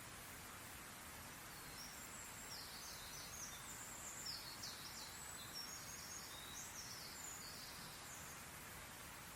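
Small birds chirping and twittering in quick, high-pitched short notes, a busy flurry from about a second and a half in until near the end, over a faint steady outdoor hiss.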